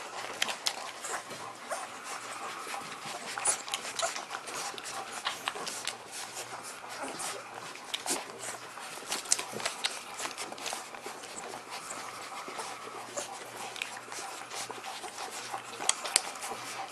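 A nursing mother dog and her puppies: panting and small whimpers over many short clicks, with a faint steady hum underneath.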